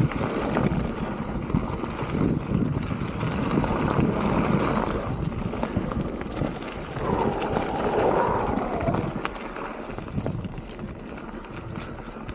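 Mountain bike riding down a wet dirt trail: tyre noise and knocks over the ground, with wind buffeting the microphone.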